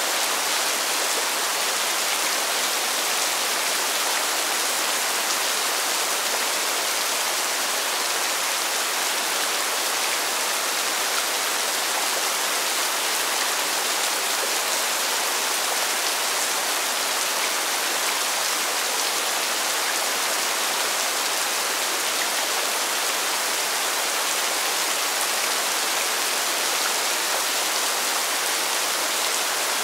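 Constant rain hitting pavement: a steady, even hiss with no single drops or other events standing out.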